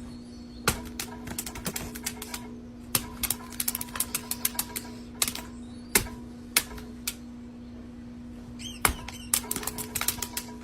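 Sharp, irregular clicks and taps in quick runs over a steady hum.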